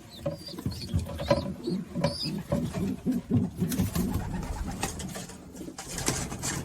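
Racing pigeons cooing over and over, with short high chirps in the first half and a few sharp clicks and rustles in the second half.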